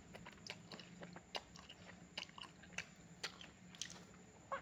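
A person chewing a mouthful of noodles close to the microphone: faint, irregular wet clicks and smacks of the mouth.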